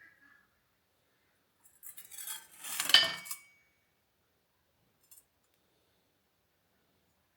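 Metal scraping and clinking that builds over about a second and a half to one sharp clink with a short ring. A faint tick follows about two seconds later.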